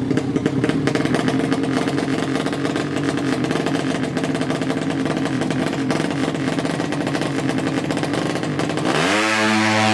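200cc horizontal-cylinder drag-bike engine running at a choppy idle. About nine seconds in it is revved up sharply and held at higher revs.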